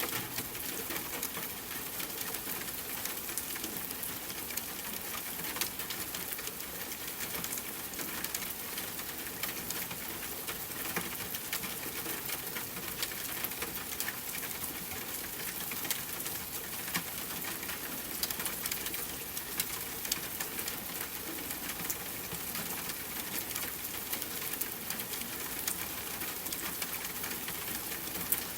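Steady rain hiss with frequent sharp crackles and pops from a wood fire.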